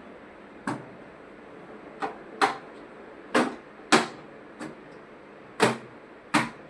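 Eight short, sharp knocks at irregular intervals, like hard objects striking or being set down.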